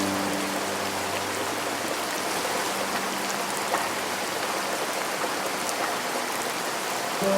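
Steady rain falling, an even hiss dotted with individual drop ticks. Held piano notes die away over the first few seconds, and piano starts again at the very end.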